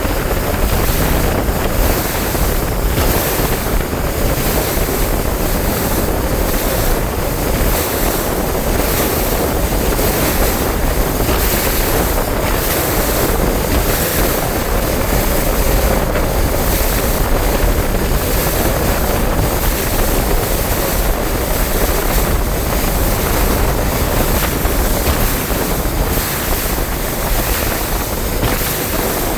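Bass boat under way on open water: a steady, loud rush of wind buffeting the microphone and water against the hull, with engine noise underneath.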